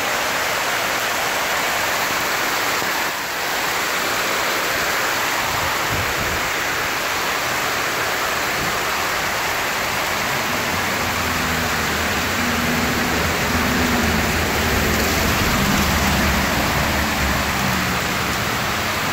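Heavy rain falling steadily in a dense hiss. About halfway through, a low rumble joins it, grows a little louder, and fades near the end.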